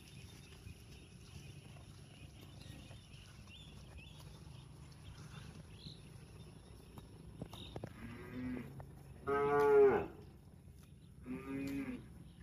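A cow mooing three times in the last few seconds, the middle call the longest and loudest.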